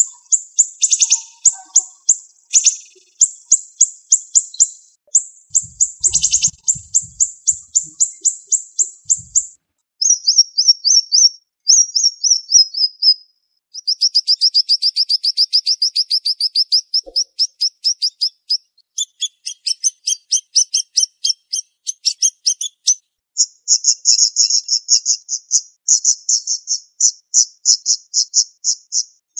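Siri-siri songbird singing: fast, closely packed runs of high, sharp chirps, broken by brief pauses and a few short gliding trills.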